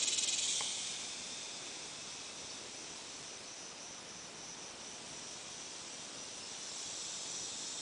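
Steady high-pitched hiss of background noise, with one faint click about half a second in.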